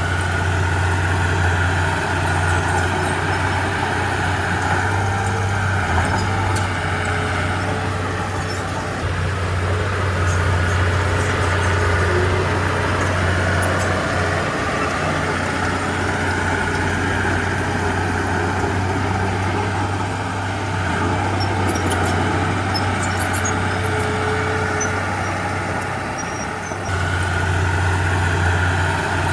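Heavy diesel earthmoving machinery running: a steady low engine hum that eases off a few times and picks up again a couple of seconds before the end, with faint metallic clicks and squeaks over it.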